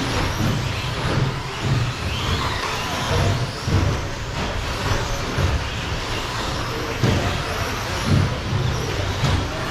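Radio-controlled short course trucks racing, their motors whining and rising and falling in pitch as they speed up and slow down, over a low, uneven rumble.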